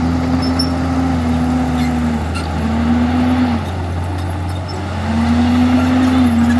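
Komatsu D51EX bulldozer's diesel engine running under changing load. Its note sags and fades twice, then rises again about five seconds in.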